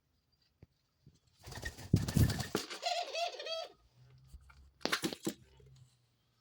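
A pet dove coos in a short wavering series of notes, typical of a male chasing and showing off to a female. The coo is preceded by a loud rustling burst, and another brief rustle comes near the end.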